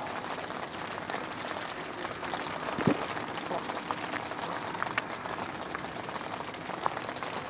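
Rain falling steadily on a camping shelter, an even patter with many scattered drip ticks. A single soft knock about three seconds in.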